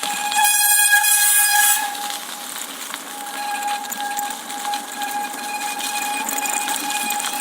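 Brakes squealing: one steady high-pitched squeal with overtones, held without a break. About half a second in, a hissing rush joins it for about a second and a half.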